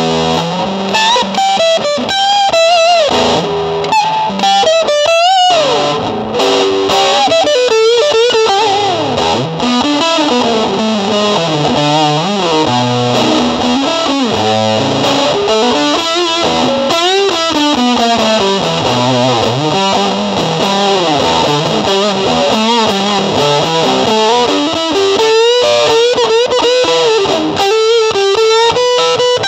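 Distorted electric guitar playing a melodic lead line, with notes that bend and waver over lower held notes.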